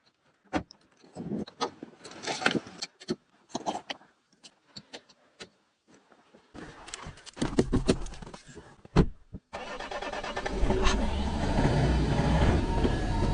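A run of sharp clicks and knocks, then a vehicle engine starting and running steadily from about three-quarters of the way through.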